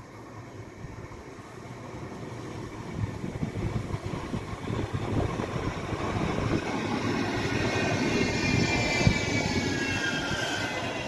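Manchester Metrolink tram approaching, its running rumble growing steadily louder. From about seven seconds in, the traction motors add a whine of several tones that shifts in pitch.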